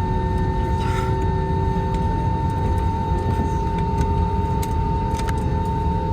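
Airbus A321-231's single running IAE V2500 turbofan at taxi power: a steady low rumble under a steady whine, with a few faint clicks.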